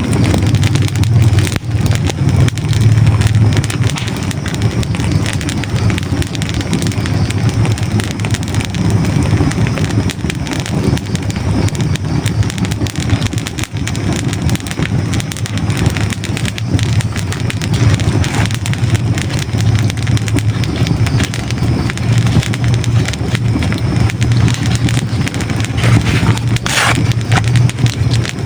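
Hardwood logs burning in a fireplace: a steady low rumble of flame with dense crackling, and one sharp pop about a second and a half before the end.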